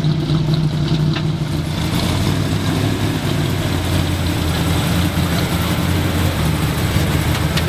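1970 Dodge Challenger T/A's 340 V8 running with a steady, deep exhaust note as the car drives slowly past at low speed.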